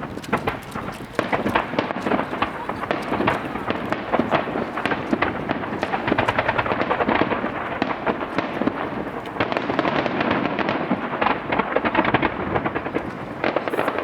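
Starmine fireworks barrage: a dense, continuous stream of rapid bangs and crackles from shells bursting one after another, with no pause.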